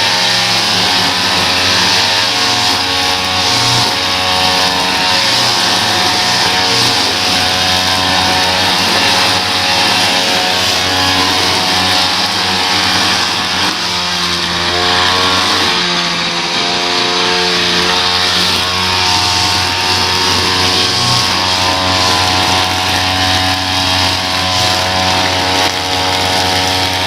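Small gasoline engine of lawn-care equipment running steadily at high speed; about halfway through its pitch dips briefly and then comes back up.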